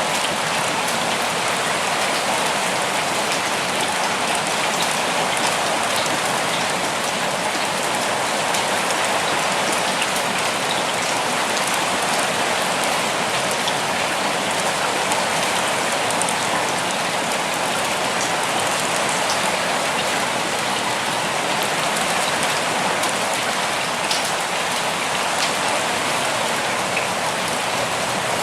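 Steady rain falling on leaves and ground, with scattered individual drops ticking through the even hiss.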